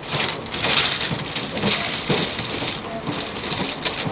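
Argo Bromo Anggrek passenger train running at speed: a steady rushing hiss of air and wheels on rail, with scattered clicks and knocks.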